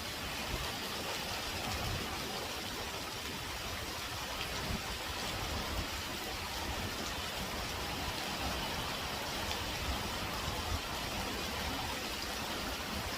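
Heavy typhoon rain falling steadily, with gusty wind rumbling underneath.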